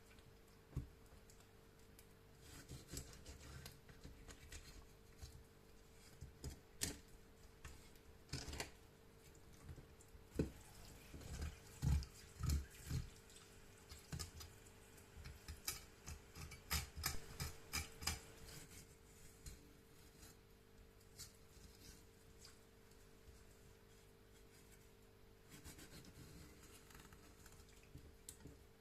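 Quiet food-preparation handling: scattered light clicks and knocks of utensils and food being worked, with a few heavier low knocks around the middle, over a faint steady hum.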